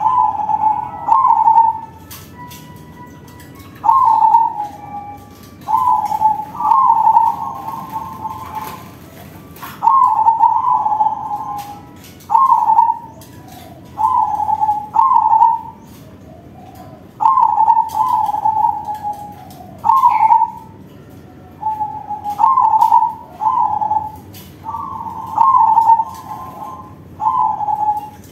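Crossbred male zebra dove (perkutut crossing) singing its loud cooing song over and over: short coo phrases near 1 kHz, one every second or two and often in pairs, with faint clicks between them.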